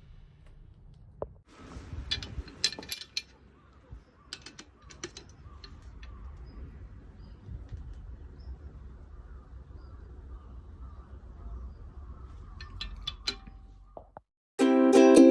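Hand tools working on a Nissan L16 engine during assembly: three clusters of short, sharp metal clicks over a low steady rumble.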